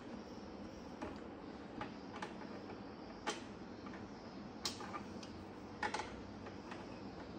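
A handful of light, sharp clicks and taps at uneven intervals over a steady low hiss: small tools and metal parts being handled during fridge compressor repair work.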